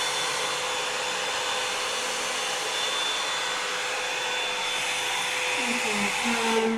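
Revlon One-Step hair dryer and volumizer brush blowing steadily, a loud rushing airflow with a faint whine. Its sound shifts in pitch in the last second or so, then cuts off abruptly at the end as it is switched off with the hair dry.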